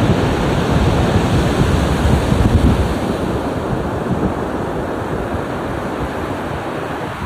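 Ocean waves breaking on a shore: a steady rush of surf that swells during the first few seconds, then eases off to a softer wash.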